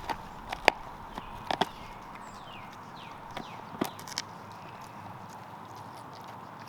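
Irregular sharp clicks and cracks, a small animal gnawing on a stick, in scattered groups. Faint short falling bird chirps run in the background.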